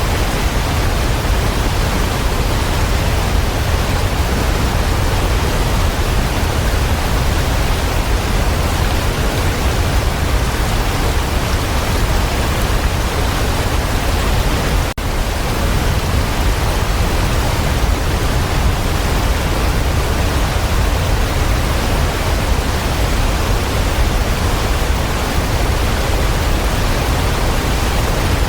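Waterfall: a steady, full rush of falling water, heaviest in the low end, with a split-second dropout about halfway through.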